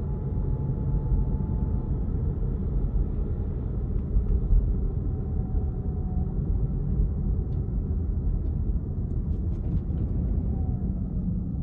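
A car being driven: a steady low rumble of road and engine noise, with a brief louder bump about four and a half seconds in.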